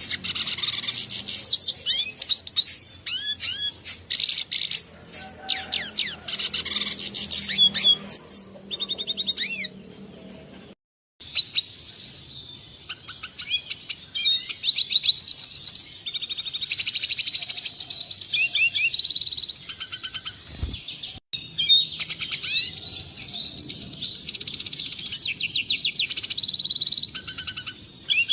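Red siskin song: a continuous, fast stream of high twittering, chirps and buzzy trills, with a brief break about eleven seconds in.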